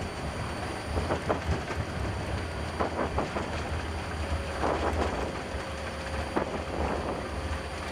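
Airbus A330-300 landing rollout heard in the cockpit: a steady deep rumble from the engines in reverse thrust and the wheels on the runway, with irregular knocks and rattles as the aircraft decelerates.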